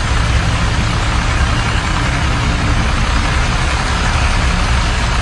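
Massey Ferguson tractor's diesel engine running steadily and loudly.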